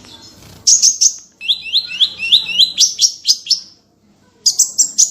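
Small songbird singing a fast, high-pitched phrase: a quick run of sharp notes, then a string of rapidly repeated slurred notes. After a short pause, another quick burst of sharp notes comes near the end.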